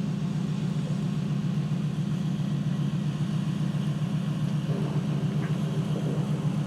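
A vehicle engine running steadily, giving a low, even drone.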